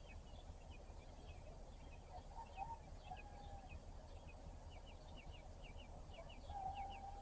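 Faint rooster crowing, a shorter crow about two and a half seconds in and a long drawn-out crow starting near the end. Small birds chirp throughout in quick runs of short falling notes. A low steady rumble lies underneath.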